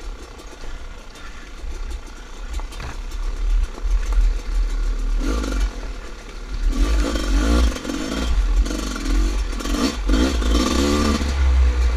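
Dirt bike engine running, quieter at first, then from about halfway through revving up and down over and over with the throttle, under a constant low rumble.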